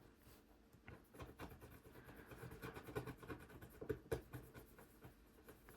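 Faint scratching and rustling of paper, with scattered small taps and clicks.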